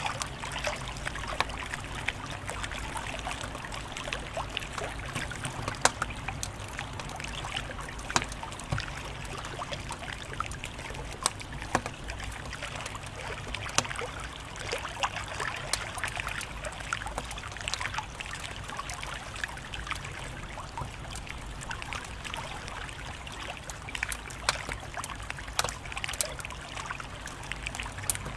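Wood fire crackling: a steady hiss dotted with sharp pops and snaps at irregular moments.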